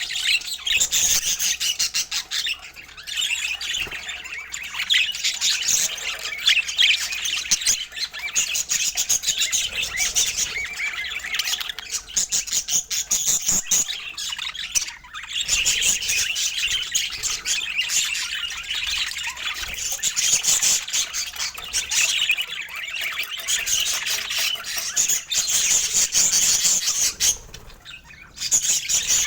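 Several budgerigars chattering non-stop in rapid chirps, warbles and squawks, with a short lull near the end.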